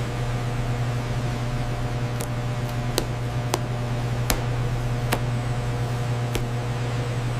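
Steady low machine hum of factory equipment, with six sharp clicks or clanks scattered through the middle.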